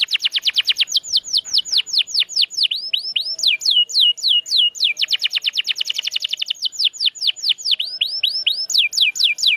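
Domestic canary singing a continuous song of rapidly repeated downward-sweeping whistled notes. Fast rolling trills alternate with slower, wider swooping notes.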